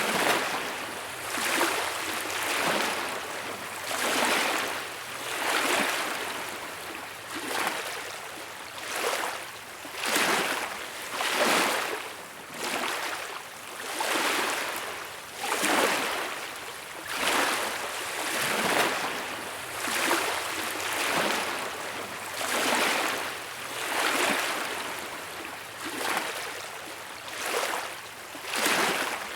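Small sea waves breaking and washing up a beach in a steady rhythm, a surge of surf every second or two.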